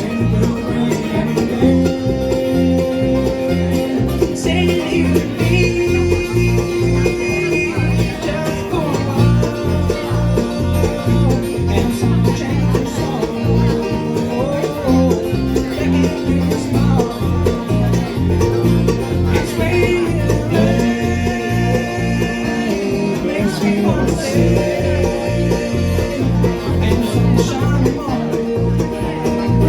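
Bluegrass band playing an instrumental break: banjo and guitar over a steady, bouncing bass beat, with fiddle lines holding long notes.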